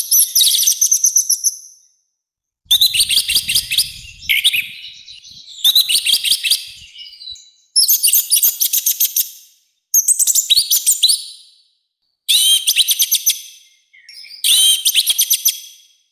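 Orange-headed thrush singing a loud, rough-toned song in a string of fast, high-pitched phrases, each about one and a half to two seconds long, with short pauses between them.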